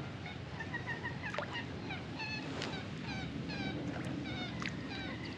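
Birds calling: a run of short, high chirps, several a second, each dropping in pitch.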